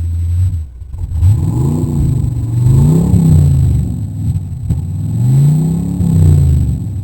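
1988 Ford Crown Victoria's V8 engine, just started after sitting for months, idling and then revved up and down several times, each rev rising and falling smoothly back toward idle.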